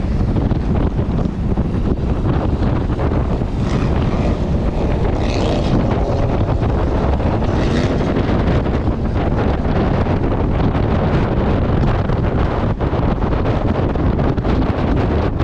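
Wind rushing over the microphone of a motorboat running at speed, over the steady sound of the boat and the water under the hull.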